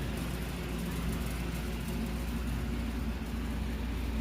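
Steady low mechanical hum with no sudden sounds.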